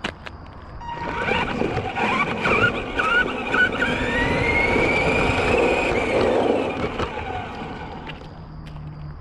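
Arrma Granite 4x4 radio-controlled monster truck driving, its electric motor whining and rising in pitch as it speeds up, over tyre and drivetrain noise. It builds about a second in, is loudest mid-way, and fades out near the end.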